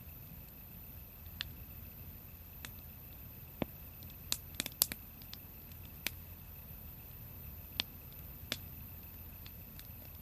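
Wood fire crackling: irregular sharp pops and snaps over a faint steady background, with a quick cluster of louder pops about four to five seconds in.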